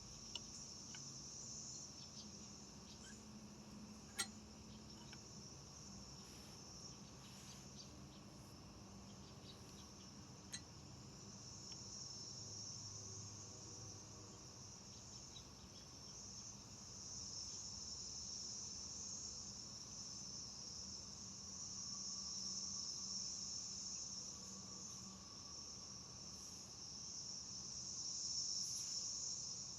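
A steady, high-pitched insect chorus of crickets that grows louder in the second half, with three sharp clicks, the loudest about four seconds in.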